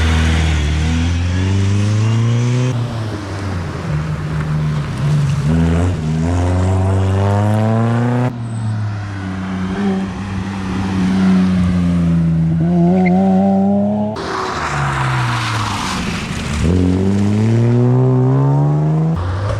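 Rally cars at full throttle, one after another, their engines revving up through the gears with quick shifts in between, the pitch climbing and dropping back each time.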